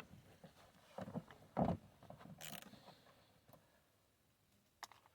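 A few faint knocks and clicks of hand tools being handled against a truck door panel, with a brief scrape about halfway through.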